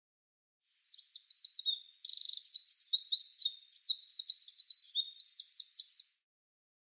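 A songbird singing a fast, varied song of rapid high chirps and trills, lasting about five seconds.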